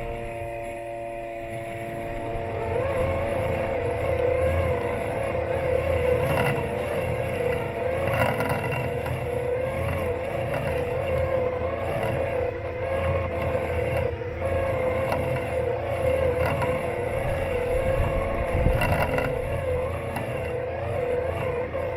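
Robotic lawn mower's electric motors whining steadily, heard up close from a camera taped to its body. A second, wavering whine joins about two seconds in, over a low rumble.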